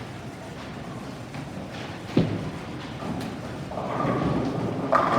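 Bowling alley sounds: a bowling ball thuds onto the lane about two seconds in, then a rolling rumble builds and a sharp ringing hit comes near the end.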